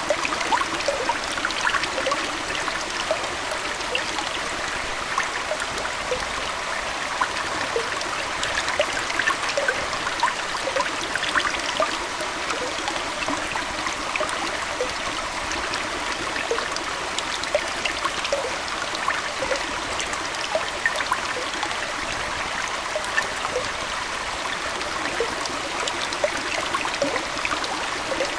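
Aquarium water trickling and splashing steadily, with many small bubbling, dripping plinks over a continuous flow.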